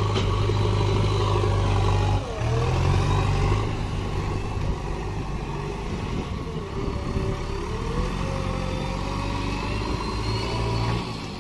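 Heavy diesel engine of earthmoving machinery running steadily, its note shifting about two seconds in, with a fainter whine that dips and rises.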